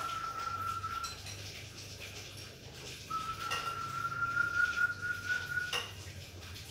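A high, steady whistle held on one note, stopping about a second in. About two seconds later a second long whistle starts, rises slightly in pitch and cuts off with a sharp click. Faint small clinks sound in the background.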